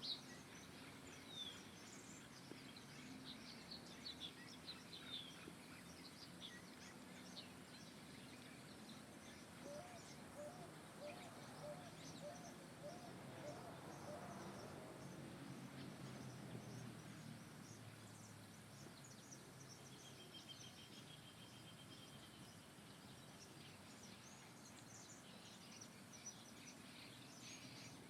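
Several birds chirping and calling faintly over a steady background hiss. About ten seconds in there is a run of low repeated notes, and about twenty seconds in a short high trill.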